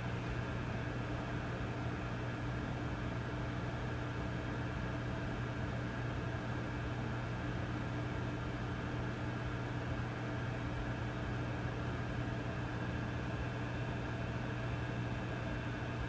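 Vintage tube amplifier humming with no signal: a steady low hum with several fainter higher tones, under an even hiss.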